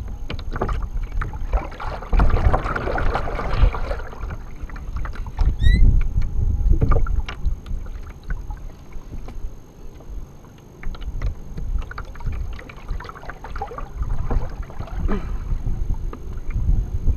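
Water splashing and knocks against a kayak while a hooked bass is fought from it, with low wind rumble on the microphone.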